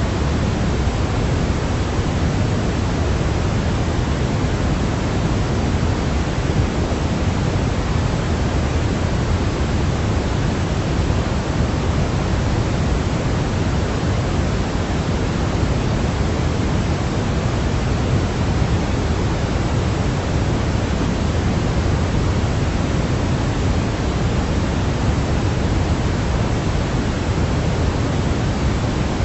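Steady, unbroken noise played as a baby sleep aid. It is deeper than true white noise, with most of its strength in the low end, and it never varies.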